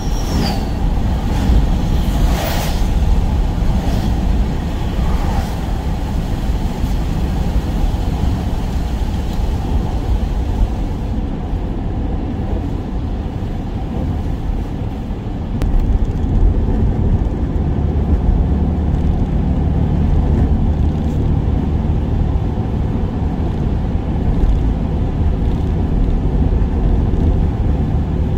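Work van on the move: a steady low rumble of engine and road noise, with a few sharp clicks in the first few seconds.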